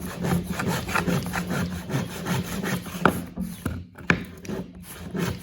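Hand saw cutting through a wooden board held in a wooden saw guide, in steady back-and-forth strokes, with two sharper knocks about three and four seconds in.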